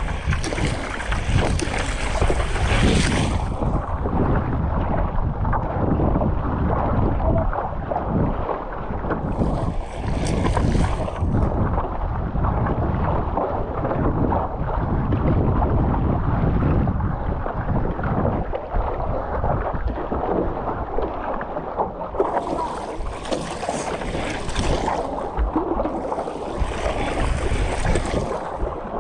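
Wind buffeting the microphone with steady water wash around a stand-up paddleboard on choppy sea. Spells of hissing splash or spray come in at the start, about ten seconds in, and twice near the end.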